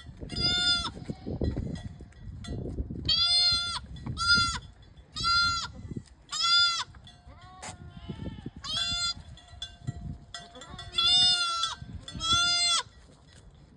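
Newborn goat kid bleating: about ten short, high-pitched cries, roughly one a second, over a low rustling noise.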